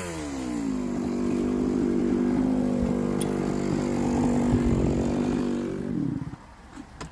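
Chainsaw engine running at a high, steady speed after coming out of the cut, then winding down near the end.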